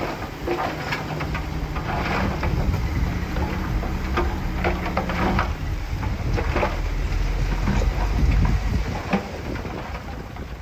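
Diesel engine of heavy earthmoving machinery running, with repeated clattering of stone over its low rumble. The sound is loudest about eight seconds in and then fades.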